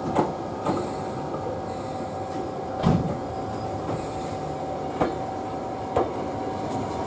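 Hakone Tozan Railway 2000-series electric train coming in alongside on the next track, its wheels knocking over rail joints: five knocks, the loudest and deepest about three seconds in. Underneath runs a steady hum with a constant tone.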